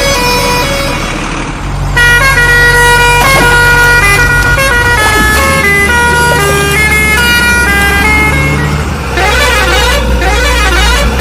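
Loud electronic tones stepping from note to note like a simple melody over a low steady hum, with a warbling siren-like sound starting near the end.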